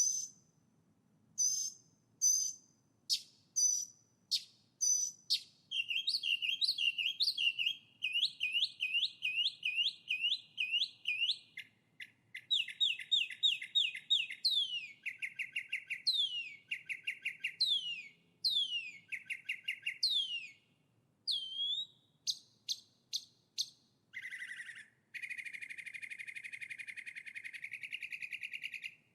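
A songbird singing a long, varied song. It opens with separate high chirps about twice a second, moves into fast trills and runs of quick falling whistles, and ends in a harsh, buzzy trill that stops abruptly.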